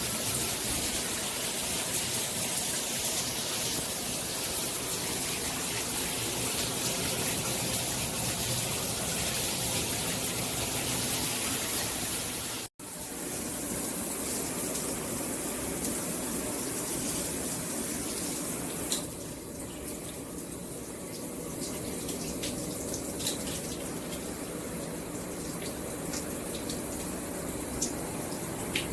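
Water spraying steadily from a shower head, a continuous hiss. It cuts out for a moment about thirteen seconds in, and after about nineteen seconds the spray sounds softer and duller, with a few small clicks.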